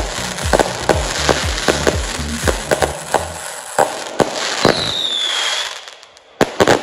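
A 20 mm multi-shot fireworks cake (a 180-shot consumer barrage) firing, its shots and star bursts following about three a second over steady crackling. After about four seconds the firing thins out as the cake runs out. A short falling whistle comes next, then a few last sharp bangs near the end.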